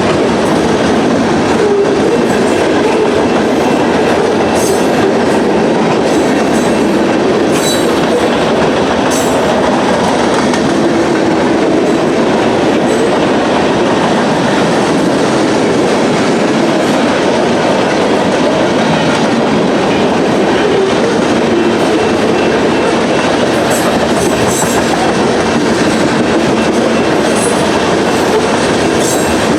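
Freight train cars rolling past close by: a steady, loud rumble of steel wheels on rail, with a few brief, faint high wheel squeals.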